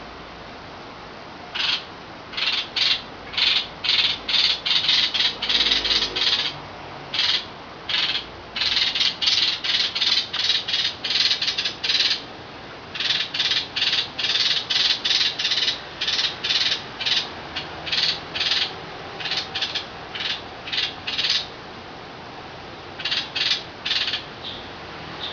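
Young birds begging to be fed: rapid, harsh, high-pitched cheeps repeated a few times a second in long runs, with short pauses between runs.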